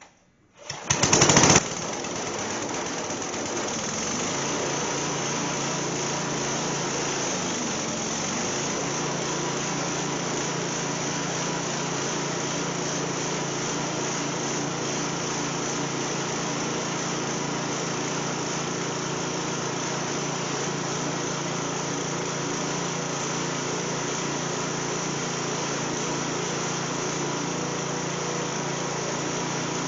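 Over-30-year-old Coleman generator's Briggs & Stratton small engine being pull-started: it catches loudly about a second in and then runs at a steady speed.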